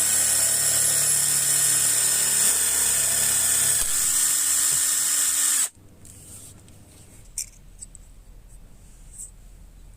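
Handheld electric power tool running steadily at full speed while working the metal tin, then switched off suddenly about five and a half seconds in. A few faint clicks follow.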